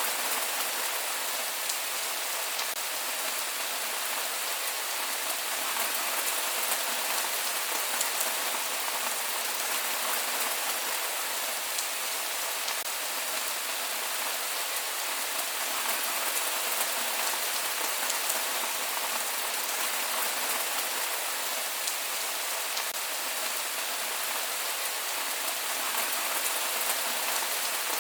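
Steady rain falling, a continuous hiss with scattered drop ticks and no thunder.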